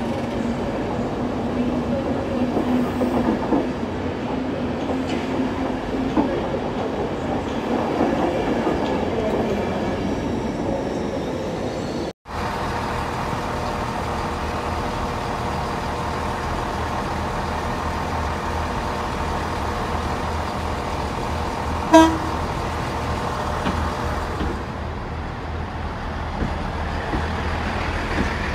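LNER Azuma train moving along a platform with a steady low tone. After a cut, a Chiltern Railways diesel multiple unit running with a steady low engine drone, with one short horn toot about two-thirds of the way through.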